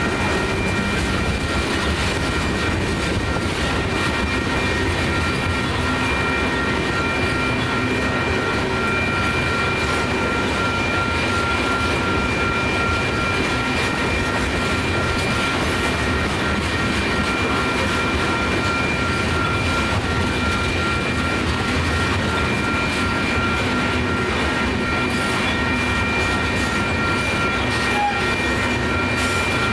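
Freight train of tank cars rolling steadily past a grade crossing: a continuous, even rumble of wheels on rail, with a steady high ringing tone held above it.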